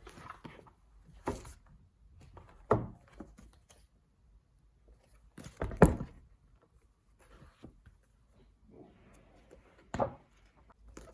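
Household handling noises: a few separate knocks and thuds, the loudest about halfway through, with soft rustling between them.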